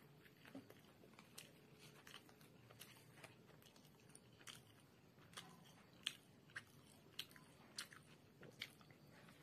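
A bite taken from an egg roll wrapped in flatbread, then close-up chewing heard as faint, irregular crunchy clicks about once or twice a second.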